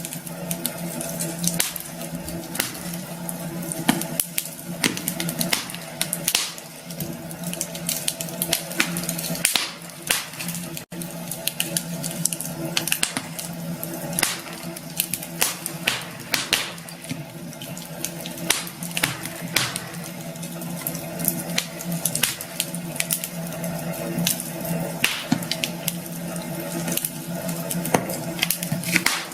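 Campfire burning, wood crackling with many sharp irregular pops over a steady hiss, and a faint steady low hum underneath.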